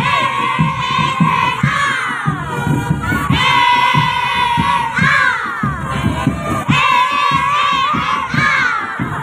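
Marching drum band drums beating fast and steadily under a crowd of children shouting and chanting together in loud, rising and falling calls.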